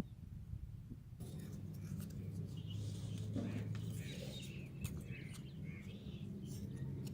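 Small birds chirping and calling, starting about a second in, over a low steady hum.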